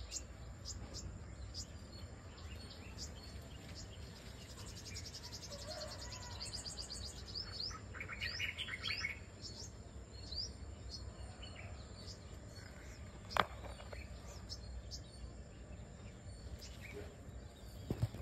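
Small birds chirping and calling in short high notes, with a quick trill about six seconds in, over a low steady rumble and a faint steady high tone. A single sharp click about thirteen seconds in.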